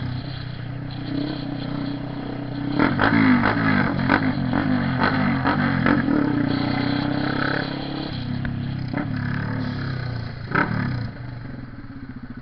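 Honda CB 300R's single-cylinder engine running under way, its pitch rising and falling with the throttle, with several sharp cracks in the middle and another near the end; it drops back shortly before the end.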